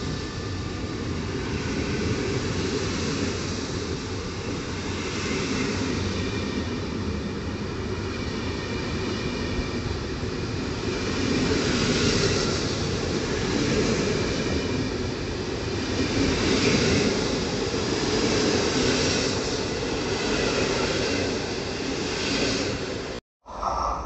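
Passenger train on the move along the platform: a steady rumble of wheels on rails, with swells of higher rushing noise every couple of seconds. The sound cuts out abruptly for a moment near the end.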